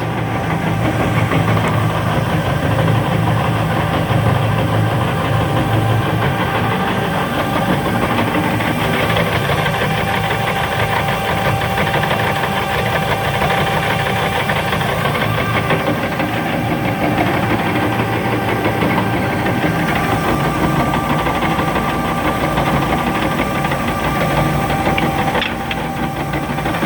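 Doall horizontal metal-cutting bandsaw running: a loud, steady mechanical drone with a few held whining tones.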